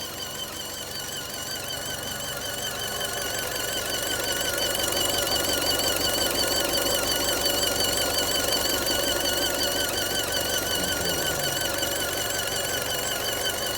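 Fiat engine running with an abnormal high-pitched squeal from the engine bay that wavers rapidly in pitch. The squeal grows louder over the first few seconds, then slowly eases. To the owner it is a strange noise that may mean something has broken.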